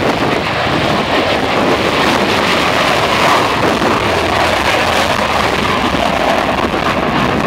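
Aircraft engine noise from an airshow flight: a loud, steady rushing roar, mixed with wind buffeting the microphone.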